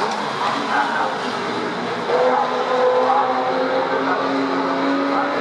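Historic DTM touring race car engines running at speed on the circuit, with one car's engine note rising and growing louder about two seconds in.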